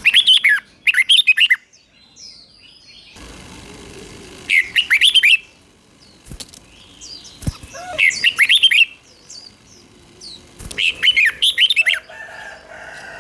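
Red-whiskered bulbul singing: short, quick phrases of bright whistled notes, four bursts a few seconds apart with pauses between.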